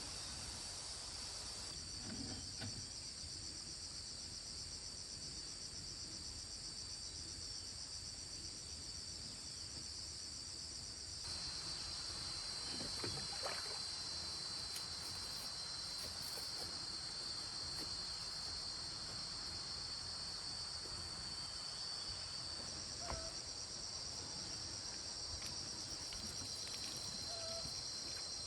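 Steady high-pitched chorus of insects trilling, shifting in pitch and growing slightly louder about eleven seconds in, with a few faint knocks.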